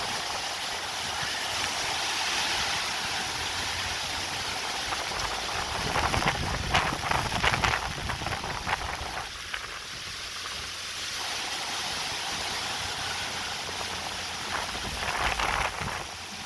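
Hurricane wind and heavy rain with a steady rushing noise. Louder gusts with brief crackling knocks and low rumble come about six to eight seconds in and again near the end.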